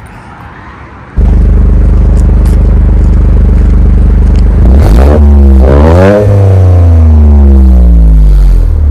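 Toyota GR Corolla's 1.6-litre turbocharged three-cylinder engine, heard close to its three-outlet exhaust. It comes in suddenly and loud at a steady idle about a second in. About halfway through it is revved twice in quick succession, then its pitch falls slowly back toward idle.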